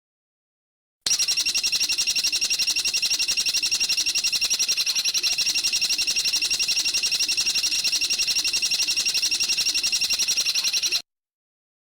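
A bird's rapid, even, high-pitched rattling trill of about ten notes a second, held unchanged for about ten seconds and cut off abruptly: a looped bird-call recording used for training cage birds.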